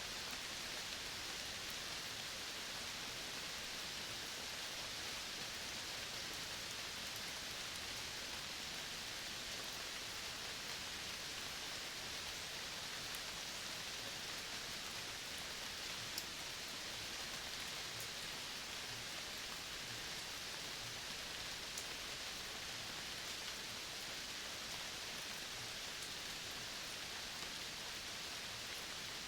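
Steady, even hiss of natural outdoor ambience, with a few faint ticks now and then.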